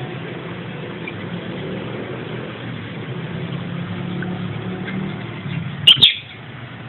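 African lovebirds chirping: a few faint chirps, then two very loud, sharp calls in quick succession about six seconds in, over a steady low hum.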